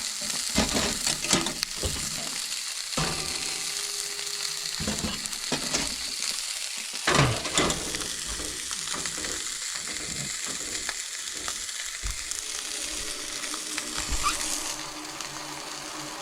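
Salmon frying in a pan, sizzling steadily, while a utensil stirs and scrapes it, with repeated short knocks against the pan and one louder clatter about seven seconds in. The sizzle eases off near the end.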